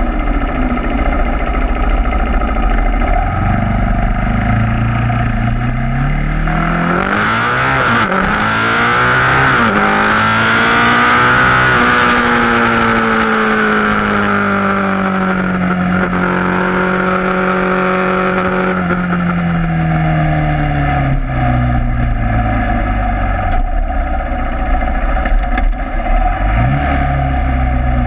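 KTM Duke 690's single-cylinder engine through an Akrapovic exhaust, pulling away and accelerating through the gears with quick dips at each shift, then holding high revs with the pitch slowly sinking. It rolls off about two-thirds of the way in, the pitch falling away, and gives a short rev near the end. Wind rushes over the microphone during the fast stretch.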